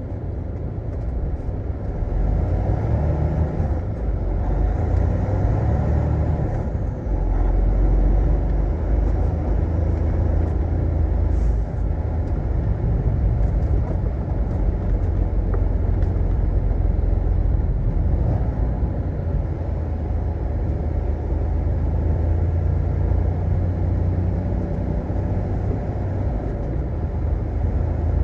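Semi truck running, a steady low rumble of engine and road noise with no sharp events.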